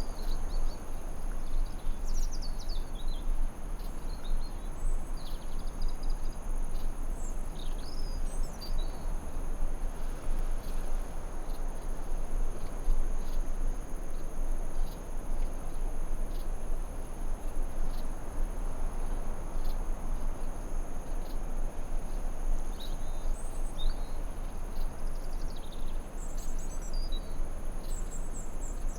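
Forest ambience: a steady hiss and low rumble under a continuous high insect drone, with short bird chirps in clusters in the first third and again near the end.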